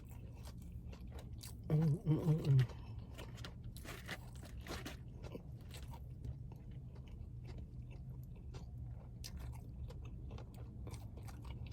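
A person chewing and crunching battered fried seafood close to the microphone, in small crisp crackles throughout, with a short murmur of voice about two seconds in.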